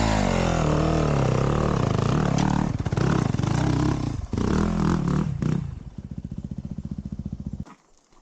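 Dirt bike engine revving up and down under load while climbing, with knocks and scrapes of the tyres and chassis on rock. It then drops to a steady, lower idle, and about three-quarters of a second before the end it cuts off suddenly.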